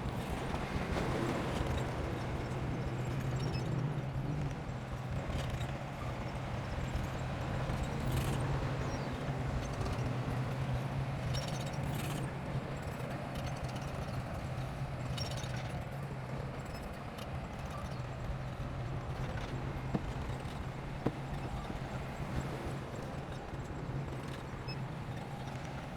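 Heavy diesel engine of construction machinery running steadily, with a few sharp metallic knocks along the way.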